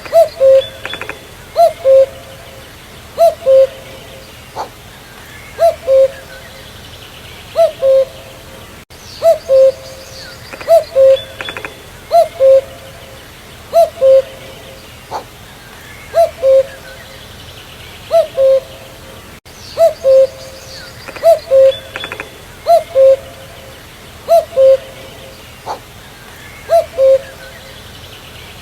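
Common cuckoo (Cuculus canorus) calling its two-note "cu-coo", a higher note followed by a lower one, repeated in a steady series every one and a half to two seconds. Faint chirps of other birds sound behind it.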